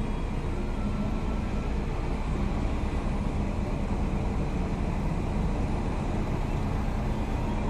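Acura RSX Type-S's 2.0-litre four-cylinder engine idling steadily, heard from inside the cabin, with a car passing across in front.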